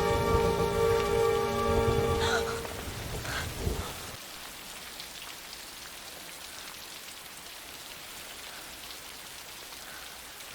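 A held music chord fades out about three seconds in, leaving steady rain falling, an even hiss.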